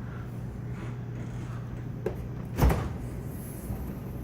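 Refrigerator door being handled, with a steady low hum, a few light clicks and one dull thud about two and a half seconds in.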